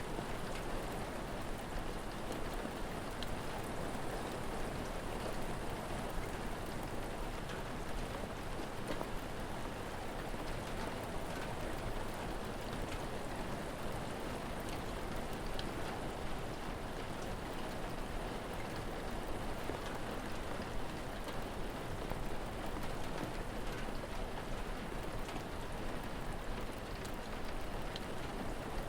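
Steady rain falling, an even, unbroken hiss with small scattered ticks throughout.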